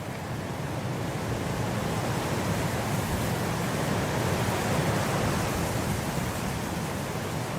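Blizzard wind blowing as a steady rush of noise, swelling over the first few seconds and easing slightly near the end.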